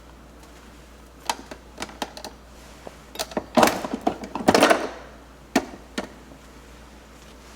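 A run of sharp clicks and knocks, a few at first, then a louder, denser clatter a little past the middle, then two last knocks.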